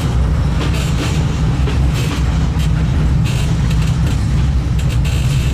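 Kurobe Gorge Railway's narrow-gauge trolley train running, heard from its open-sided carriage: a loud, steady low rumble of wheels on rails with irregular clicks over the track.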